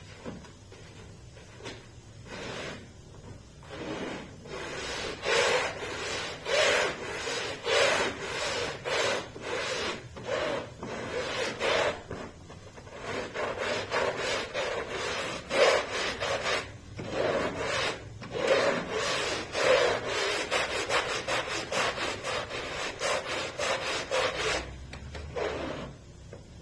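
A stiff brush scrubbing a carpet's pile by hand, one to two strokes a second. The strokes start faintly, build to a steady rhythm and stop shortly before the end.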